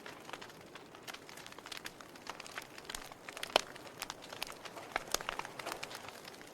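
Wood fire burning in a fireplace: irregular crackles and sharp pops over a soft hiss of flames, with one louder pop about three and a half seconds in.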